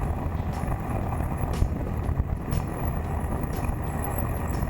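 Wind noise rushing over the action camera's microphone while riding a Suzuki GSX1400 motorcycle, with a steady low rumble of engine and road noise underneath.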